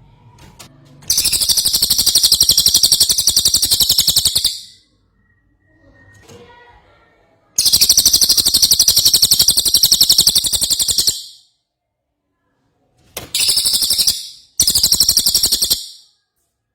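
Cililin songbird in full song, giving loud, high, very rapid trills: two long bursts of about three seconds each, then two short ones near the end.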